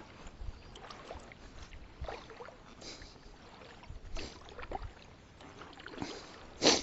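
Faint sounds of a kayak on the water: soft water noise with a few light splashes and knocks, and a louder, brief splash or swish just before the end.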